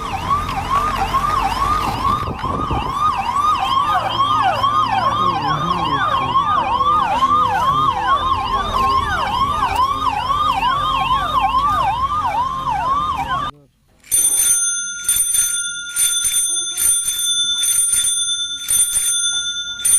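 Ambulance siren wailing in a fast, repeating rise and fall, about two or three cycles a second, over a low engine rumble. It cuts off abruptly about two-thirds of the way through. A bell then rings in quick repeated strikes, about two a second.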